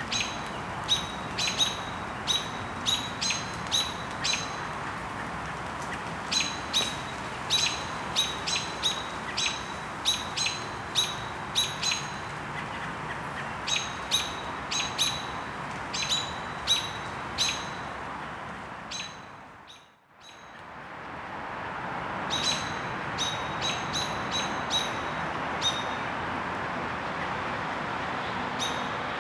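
A bird giving short, sharp chirps in quick runs of about two a second, with short pauses between runs, over a steady background hiss. The whole sound fades almost to nothing about two-thirds of the way through and then fades back in.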